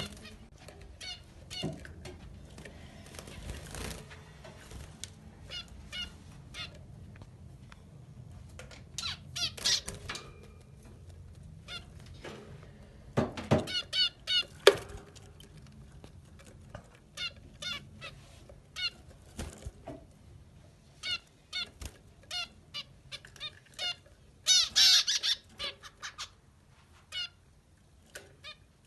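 Amadina finches (small estrildid finches) calling: short, sharp call notes repeated about once a second, with louder bursts of rapid chatter about halfway through and again near the end.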